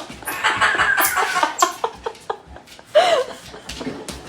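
Amazon parrot vocalizing: a run of sharp clicks and chatter, then a short call about three seconds in that rises and falls in pitch.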